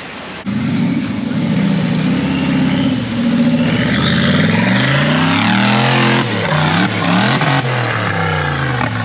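Off-road 4x4 race vehicle's engine under load. It comes in abruptly about half a second in, then revs up and down over and over as the driver works the throttle.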